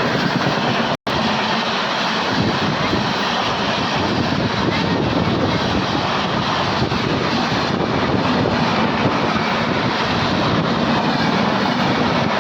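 Steady rushing rumble of a train running, with a momentary cut to silence about a second in.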